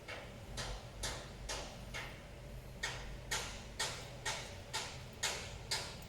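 Thermal paste being spread on a laptop CPU in short scraping strokes, about two a second, which grow louder about halfway through.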